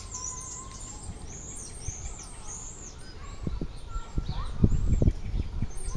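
A bird chirping: a string of short, high, arching chirps over the first three seconds. After that comes a run of low thumps and bumps, loudest a little before the end.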